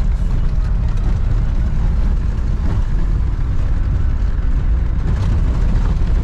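Old diesel Land Rover TDI turbodiesel driving, heard from inside the cabin: a steady, loud low engine and road rumble.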